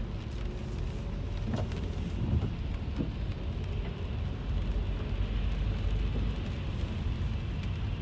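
Car cabin while driving in the rain: a steady low rumble of engine and tyres, with rain hitting the car's body and glass and a few sharp ticks in the first few seconds.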